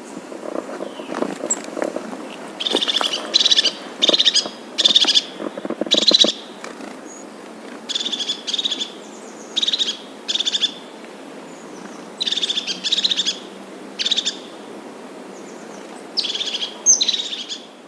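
A bird calling repeatedly: about fifteen short, loud calls, each about half a second long, coming in irregular runs of two or three, over a steady background hiss.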